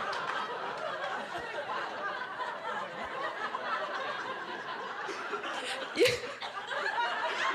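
An audience laughing and chuckling together, with one sharp, louder burst about six seconds in.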